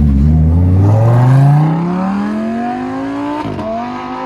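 A car engine accelerating hard, its pitch climbing steadily for about three seconds, then dropping at an upshift and rising again.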